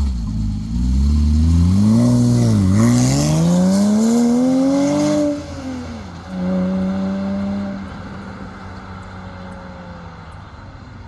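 Porsche Cayman S flat-six revving through an AWE Tuning stainless cat-back exhaust. Two quick blips come first, then a longer climb in pitch that peaks about five seconds in and falls away. After that the engine holds a steadier note that fades toward the end.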